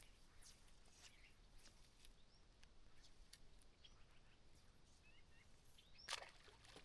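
Near silence: faint outdoor ambience with a few faint bird chirps and scattered soft ticks, and a sharper tick about six seconds in.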